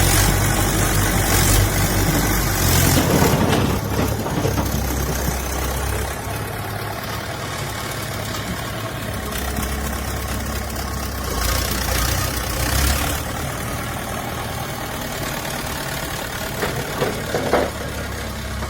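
Diesel engine of a heavy construction machine running steadily at low revs, with a few short noisy patches over it.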